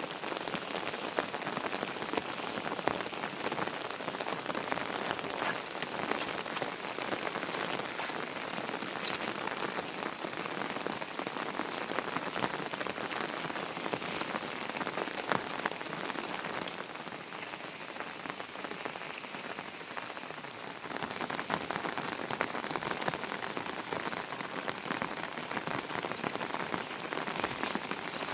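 Heavy rain falling steadily, with many individual drops ticking close by; it eases a little for a few seconds past the middle, then picks up again.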